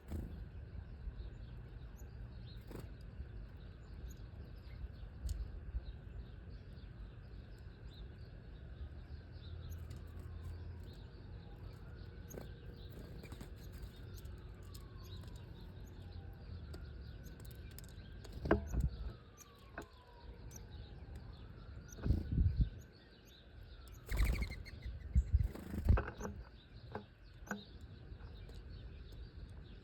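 Small birds chirping, with several loud short flutters of wings in the second half. A faint falling whistle repeats a few times in the middle.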